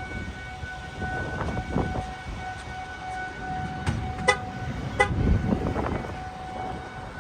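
Outdoor tornado warning siren sounding a steady tone, with wind rumbling on the microphone. A few sharp clicks come about four to five seconds in.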